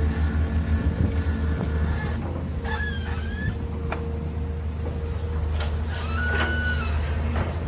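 Heavy diesel machinery engine running steadily with a constant low drone and a steady higher tone. Two short, high squeals with a bending pitch come through, about three seconds in and again about six and a half seconds in.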